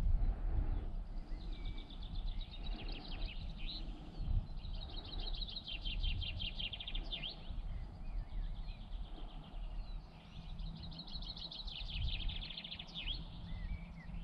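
A songbird singing several phrases of rapid, high trills, some ending in quick falling notes, over a steady low rumble.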